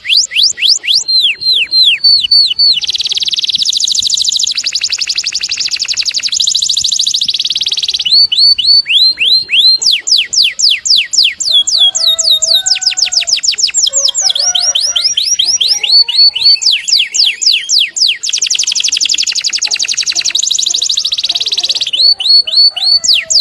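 A songbird's loud, high song of sharp falling whistles repeated several times a second. These alternate with two long, very fast trills lasting several seconds each, the first about three seconds in and the second near the end, and the song plays as a master recording for tutoring cage birds.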